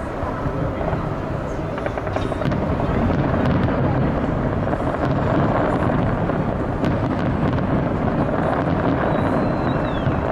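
Fireworks display: a continuous rumble of bursts with scattered crackles, growing louder a couple of seconds in, over a crowd's murmur.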